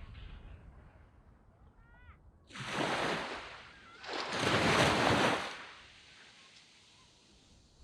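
Small waves breaking and washing up a sand beach: one wave swashes in about two and a half seconds in, and a second, louder one about four seconds in, then it eases off to a soft hiss.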